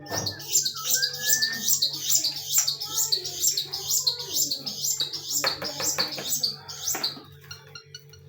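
A caged pet bird chirping rapidly, with high, sharp chirps at about three to four a second that stop about six and a half seconds in. A steady low hum runs underneath.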